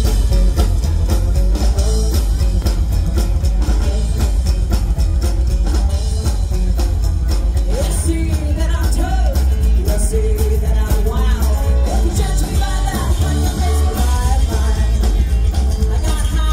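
Rockabilly band playing live, with heavy bass and a steady drum beat; singing comes in about halfway through.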